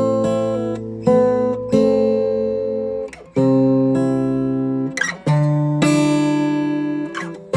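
Acoustic guitar music: chords strummed every second or two and left to ring out between strokes.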